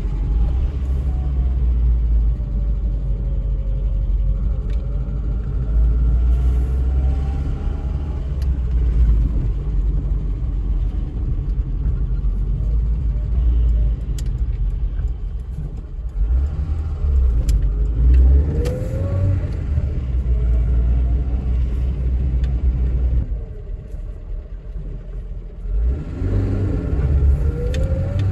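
The Ford Escort Mk3's 1.1-litre Valencia four-cylinder engine, heard from inside the cabin while driving, with a heavy low rumble throughout. Three times the revs climb as the car pulls through the gears, and there is a quieter lull a little before the end.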